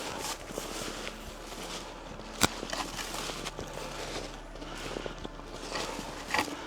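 Footsteps of a hiker climbing a slope, uneven steps, with one sharp crack about two and a half seconds in that is the loudest sound.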